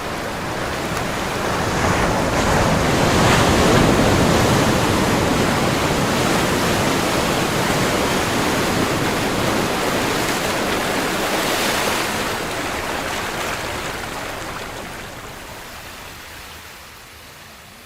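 Ocean surf: a wave builds to a peak a few seconds in, then washes out and fades away over the last several seconds.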